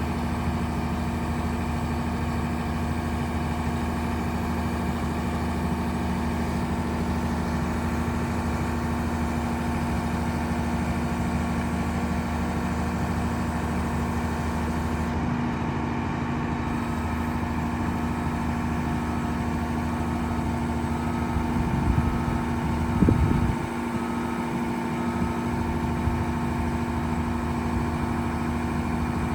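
Caterpillar M322C wheeled material handler's diesel engine running steadily at idle. Its low drone changes about halfway through, and there is a brief louder low surge a little over twenty seconds in.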